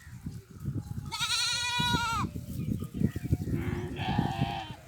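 Bleating from the mixed sheep and goat flock, twice: a loud call lasting about a second, starting about a second in, and a fainter one near the end. Underneath is a constant low rustling and crackling.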